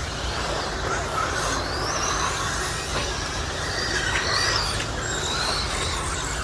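Electric 1/10-scale stadium trucks with 13.5-turn brushless motors racing, their motors whining in short rising and falling glides as they accelerate and brake, over a steady low rumble.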